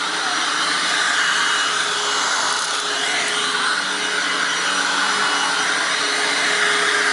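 Hoover WindTunnel Self Propelled upright vacuum with a 12-amp motor running steadily while being pushed over carpet, with a few slightly wavering hum tones under the airflow noise. The loud noise in it is the vacuum's self-propelled drive.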